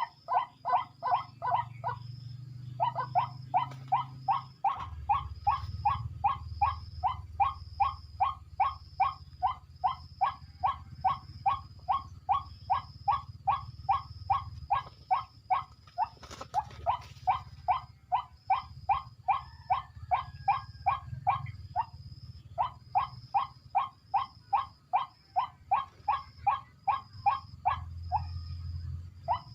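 White-breasted waterhen calling: a harsh croaking note repeated about two and a half times a second in long unbroken runs, with brief pauses after about two seconds and again about two-thirds of the way through.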